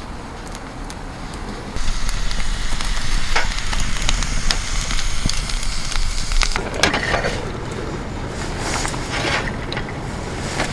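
Wood fire crackling with scattered sharp pops, over a deep rumble of wind on the microphone; the sound grows suddenly louder about two seconds in.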